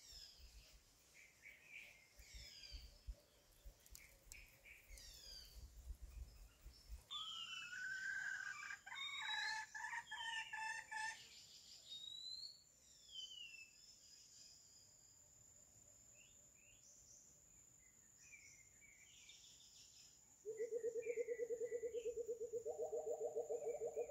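Birds calling and chirping, with a cluster of louder calls about a third of the way in. Near the end, a loud, steady, rapidly pulsing call starts and holds.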